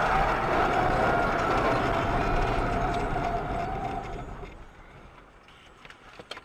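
Loud vehicle noise with a steady whine in it, fading over about four seconds and then dropping away to a faint background.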